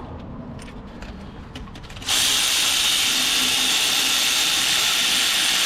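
A few faint clicks, then about two seconds in a cordless drill-type power tool starts and runs steadily without a break, spinning in a bolt during gearbox refitting.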